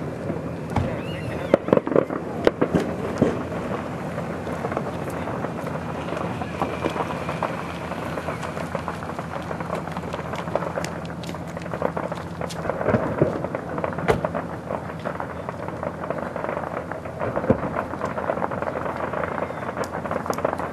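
Fireworks display: aerial shells bursting with booms and crackles, with a quick cluster of loud bangs about two seconds in, then more scattered bangs and crackling.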